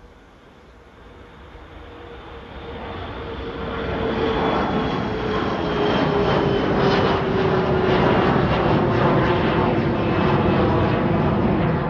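Departing airliner's engines at takeoff power, growing louder over the first few seconds and then holding loud, with a whine that slowly falls in pitch as the aircraft passes.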